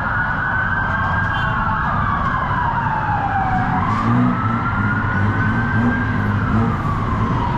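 Emergency vehicle siren in a slow wail, rising and falling in pitch about every three and a half seconds, over steady street traffic rumble.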